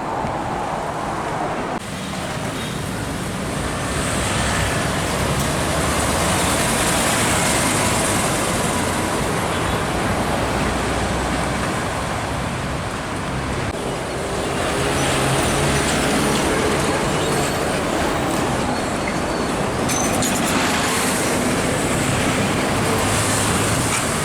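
Road traffic with heavy vehicles passing close by: engine and tyre noise that swells twice as vehicles go past, with a steady engine drone in the second half.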